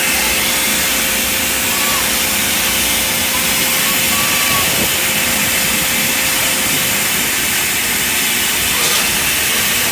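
Automatic car wash running over the vehicle: a steady, loud hissing rush.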